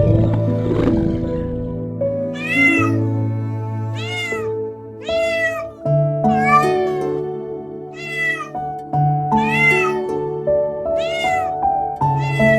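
A cat meowing over and over: about seven short, high meows, each rising then falling in pitch, roughly one every second and a half. A low rough noise comes first, in the opening second.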